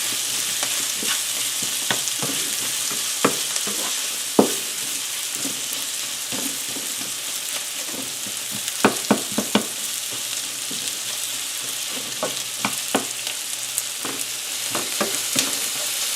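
Sliced onions sizzling steadily in hot olive oil in a frying pan. A utensil knocks and scrapes against the pan now and then as the onions are stirred and broken apart, in a quick run of clicks about nine seconds in and again near the end.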